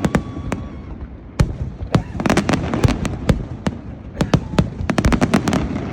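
Fireworks display: a dense, irregular run of sharp bangs and crackling reports over a steady rumble, bunching into rapid clusters about two seconds in and again in the second half.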